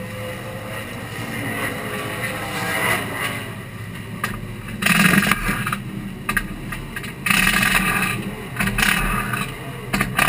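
Race car engine running steadily at idle, with louder, noisier stretches about five seconds in and again at seven to eight and a half seconds.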